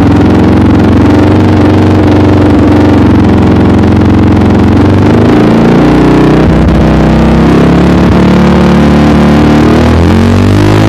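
Yamaha R15's single-cylinder four-stroke engine running loud through a Scorpion Red Power aftermarket exhaust, with a deep bass note. The revs rise and fall and begin climbing near the end.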